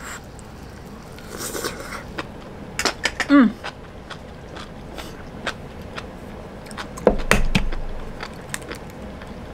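Close-miked chewing of noodles with many small wet mouth clicks, then about seven seconds in a knock and crackle as a raw egg is cracked open by hand.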